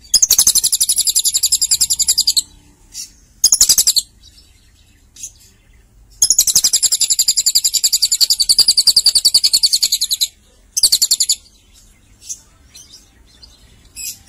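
Lovebird giving its rapid, high-pitched chattering trill (ngekek). There are two long runs, about two seconds and about four seconds, with short bursts between them.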